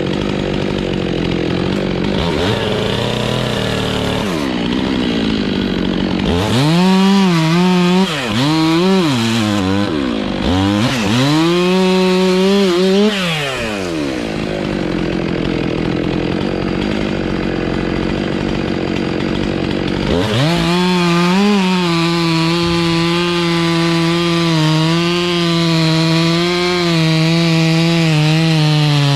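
Chainsaw running: its engine is revved up and down several times in quick swings, then held at steady high revs for the last several seconds.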